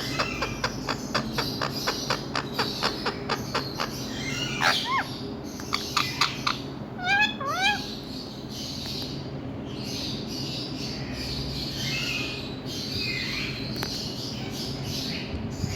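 Indian ringneck parrot calling: a fast run of short, sharp calls for the first few seconds, then a few whistled glides and a quick series of chirps about halfway, followed by softer, raspy chatter. A steady low hum lies underneath.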